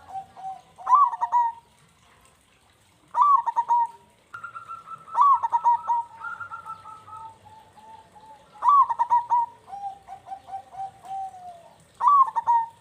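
Zebra doves (local perkutut) singing vigorously: about five loud cooing phrases, each opening with a sharp higher note and running into a rolling string of quick, softer coos.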